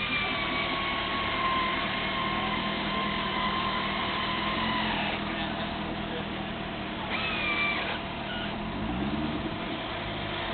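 Corvette LS2 V8 running through a Bassani exhaust, revved and held high for about five seconds with its pitch sagging slowly before dropping back. It is given a second short rev about seven seconds in, and the revs climb again near the end.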